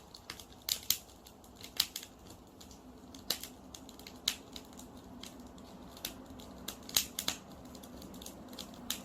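Wood campfire crackling, with sharp, irregular pops every second or so over a faint steady hum.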